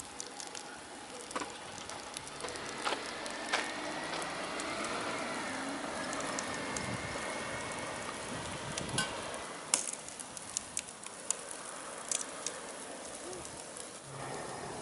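A car fire burning in a Chevrolet Camaro: a steady hiss with irregular crackles and sharp pops throughout.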